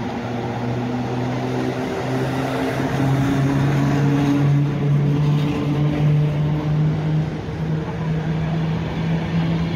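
A train pulling away, its engine or traction drive droning and rising slowly in pitch as it gathers speed, then holding steady.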